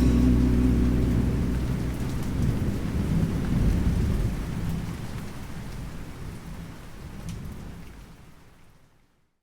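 Rain and rolling thunder as a sound effect at the end of the song: a low rumble that swells a few seconds in over steady rain, then fades away to silence near the end.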